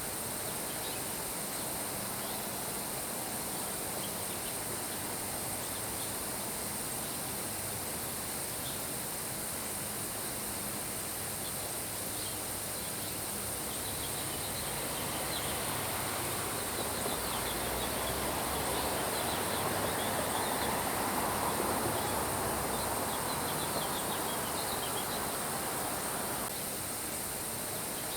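Steady rain hiss with birds chirping and a constant high trill of crickets. The rain swells louder for a few seconds past the middle, and the bird chirps cluster in the second half.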